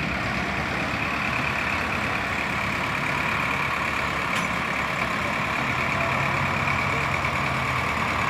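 Tractor engine running steadily while hauling a trolley overloaded with about 150 quintals of sugarcane bagasse.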